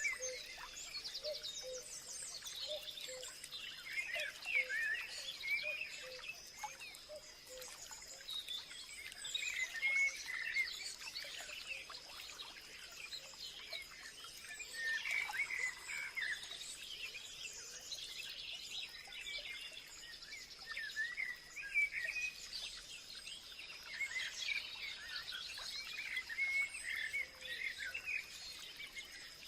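A chorus of many birds chirping and warbling throughout, with a steady high-pitched insect-like drone underneath.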